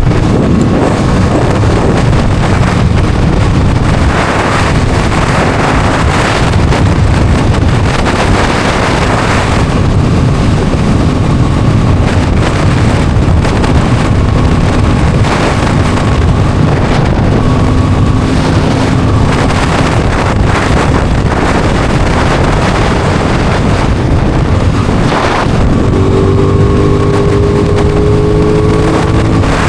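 Wind blasting over the microphone on a moving Aprilia Tuono 660 Factory, its parallel-twin engine heard faintly underneath at steady revs, then rising in pitch about 26 seconds in as it accelerates.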